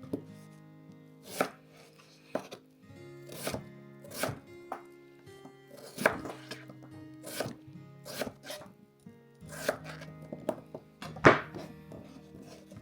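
Knife cutting on a cutting board in single, irregular chops about once a second, the loudest one near the end, over soft background music.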